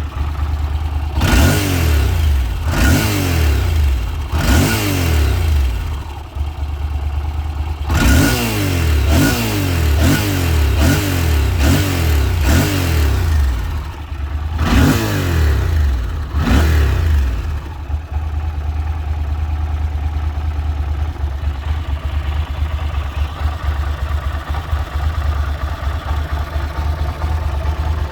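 1996 Yamaha TDM 850's parallel-twin engine revved in a series of short throttle blips, each rising and falling back, then settling to a steady idle for the last ten seconds or so.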